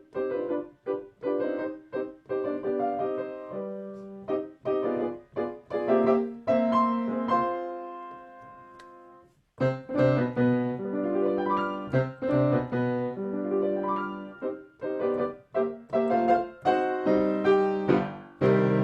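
Piano excerpt played as a music demonstration, picked up through a Rode NT5 external microphone and sent through Zoom with "original sound" turned on, so with little of Zoom's processing. A phrase dies away about halfway through before the playing starts again.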